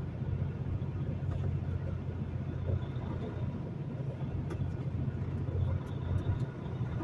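Semi truck's diesel engine idling steadily, heard from inside the cab as a low, even hum.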